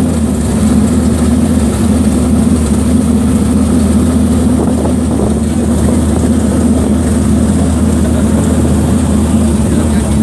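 Car engine idling steadily with a deep, even drone, never revving.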